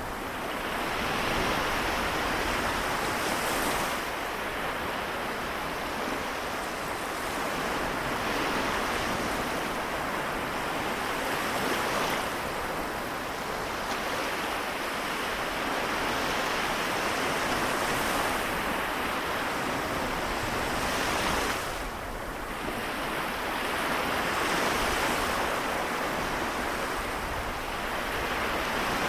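Small waves of the Seto Inland Sea washing onto the shore, a continuous surf that swells and eases every few seconds, with a short lull about two-thirds of the way through.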